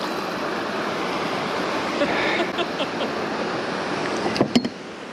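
Steady rushing of wind and water on the microphone of a kayak on a creek. A couple of short clicks come near the end, and the rush then drops off suddenly.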